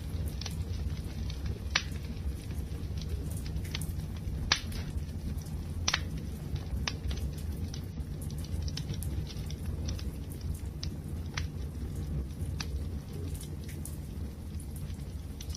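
Fire crackling: a steady low rumble of burning with scattered sharp pops, the loudest three about 2, 4½ and 6 seconds in.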